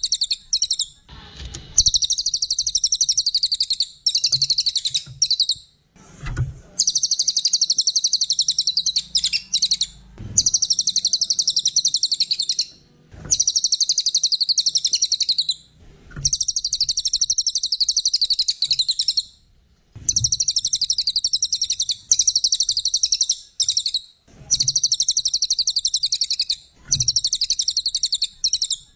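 A small songbird, the 'cililin' of Indonesian bird-keepers, singing long runs of rapid, high-pitched trilling chatter, each a couple of seconds long, with short breaks between them.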